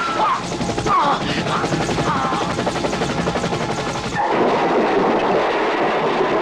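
Action-film sound mix of a fast, steady rattling over a background score. The rattling thickens and gets louder about four seconds in.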